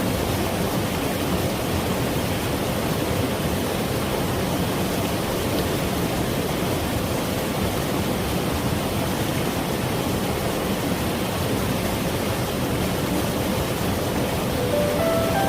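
Mountain valley stream rushing steadily, an even wash of flowing water. Gentle music comes back in near the end.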